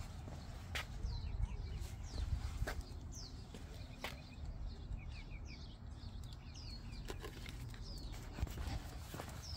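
Small birds chirping: many quick, falling chirps repeated through most of the stretch, over a steady low rumble, with a few sharp clicks.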